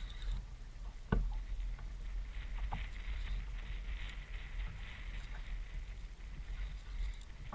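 Paddling an Ocean Kayak Trident 4.3 sit-on-top fishing kayak on the sea: irregular splashing and sloshing of water from the paddle and hull, with wind rumbling on the microphone. A sharp knock about a second in, and a smaller one near three seconds, as of the paddle striking the hull.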